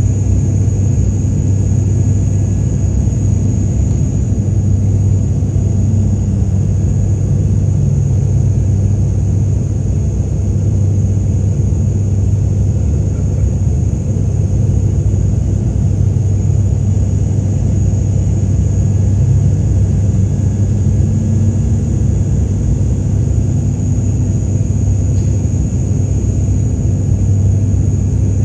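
Steady cabin drone of a passenger aircraft in flight: engine and airflow noise, a strong low hum with a thin, steady high whine above it.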